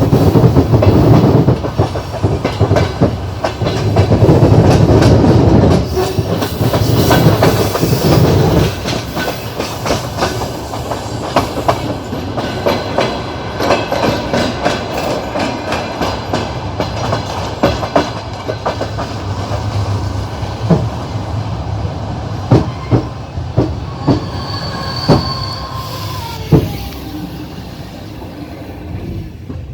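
Passenger train carriage wheels clattering over rail joints and points, heavy rumbling at first, then the clicks spacing out and getting quieter as the train slows into a station. A brief high squeal from the wheels comes near the end.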